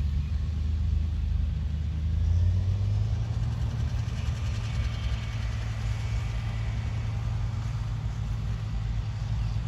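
Heavy diesel engine running steadily at a low hum, its pitch rising a little about two and a half seconds in, as the revs pick up.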